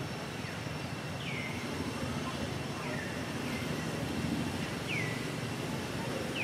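A bird repeating a short, high, downward-sliding call five or six times, about every second or so, over a steady low outdoor background rumble.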